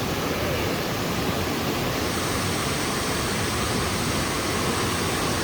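Waterfall pouring into its pool: a steady, even rushing of falling water.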